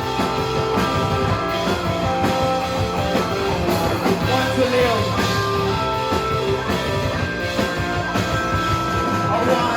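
Live rock band playing: held electric guitar notes over a steady drum beat and bass.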